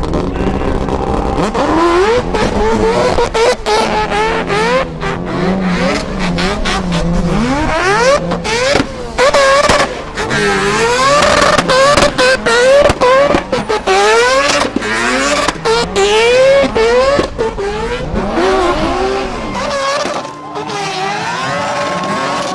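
Race car engines revving hard, their pitch climbing and falling again and again, with quick repeated rises in the middle of the stretch.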